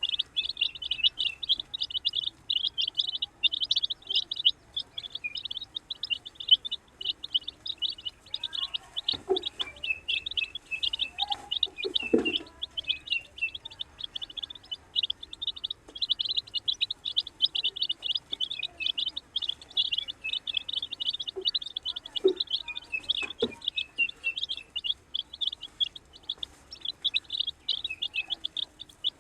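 A group of baby chicks peeping continuously, many short high chirps overlapping, with a few soft knocks or taps now and then.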